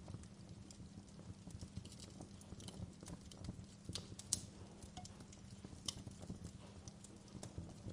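Wood fire crackling: irregular small pops and snaps over a low steady rumble, with one sharper pop a little over four seconds in.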